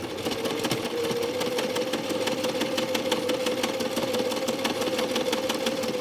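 Electric sewing machine running steadily at speed, its motor humming under a fast, even train of stitching clicks.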